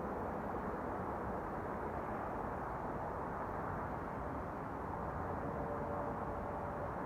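Steady low mechanical drone and rumble heard from overhead, with faint held tones joining in near the end; the recorder cannot explain it and hears it as coming from directly above.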